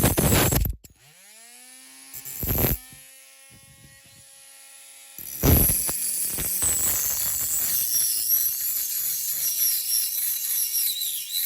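Small hand saw cutting through a diecast metal toy car's window pillar, in short rasping strokes, with a ringing tone dying away between the first strokes.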